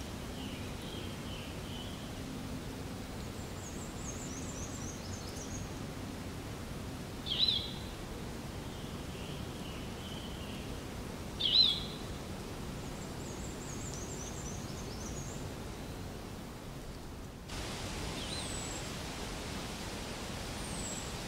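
Outdoor ambience of steady hiss with wild birds calling: runs of short high chirps, and two louder single calls about seven and eleven seconds in. The background changes abruptly about three-quarters of the way through.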